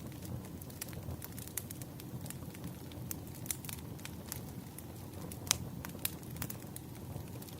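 Wood fire crackling, with irregular sharp pops over a low steady rumble; the loudest pop comes about five and a half seconds in.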